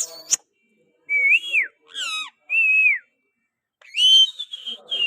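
Ringneck parakeet whistling: a short harsh squawk, then three separate bending whistles, ending in a rising note and a quick run of short repeated whistles.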